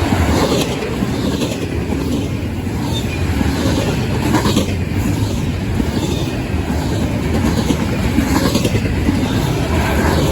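CSX intermodal freight train rolling past, a steady rumble of wheels on rail with occasional louder clatters.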